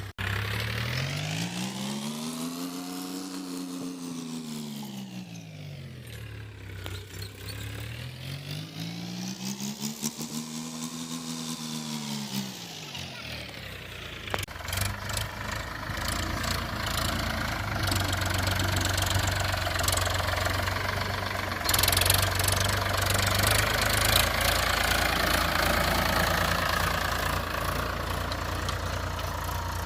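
A sweeping pitched tone rises and falls slowly twice. About halfway through it is cut off by the steady running of a Powertrac Euro 50 diesel tractor engine, which gets a little louder about two-thirds of the way in.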